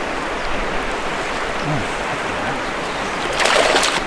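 River current rushing steadily, with a short, louder rush of noise near the end.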